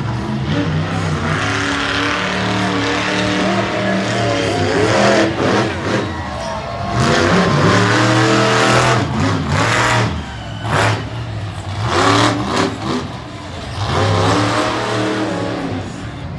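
Monster truck engine revving hard, its pitch climbing and dropping in several surges of throttle.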